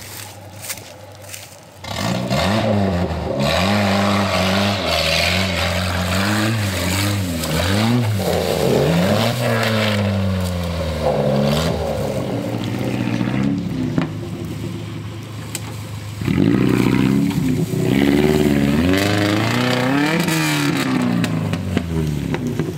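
Saturn SL1's four-cylinder engine revving hard under load, its pitch climbing and dropping over and over, with tyres scrabbling and scraping. It starts about two seconds in and surges again a little past the middle.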